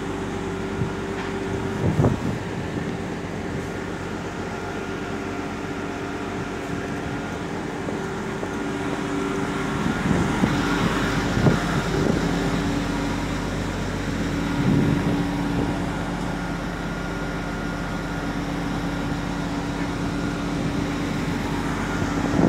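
Passenger train standing at a station platform, its on-board equipment giving a steady hum made of several held tones, with a few short knocks.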